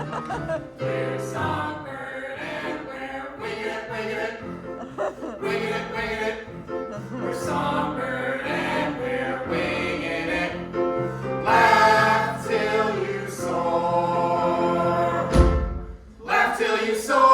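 Several voices singing together in chorus over musical accompaniment, with a brief low thump and a short break in the music near the end.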